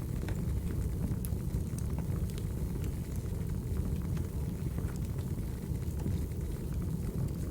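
Burning firewood crackling: a steady low rumble of flames with scattered sharp crackles and pops.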